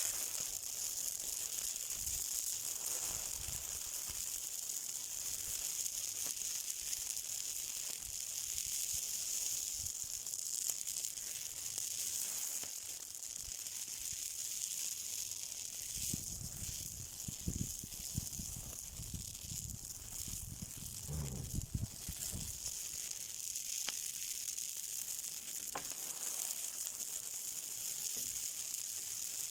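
Something burning, with a steady high hiss and a run of low crackles and pops about halfway through.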